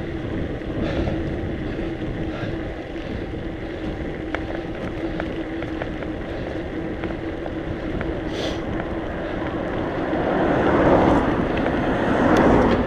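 Wind rushing over the microphone of a moving mountain bike, with a steady low hum under it. The noise swells about ten seconds in.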